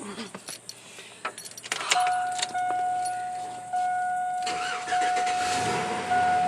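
A driver getting into a truck: clicks and jangling keys, then a steady in-cab warning chime from about two seconds in, broken by brief gaps, and about halfway through the engine cranking and starting under the chime.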